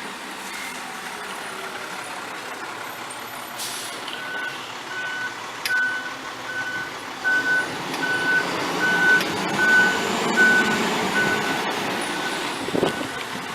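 A vehicle's reversing alarm beeping steadily, about two beeps a second, starting about four seconds in, over steady outdoor traffic noise.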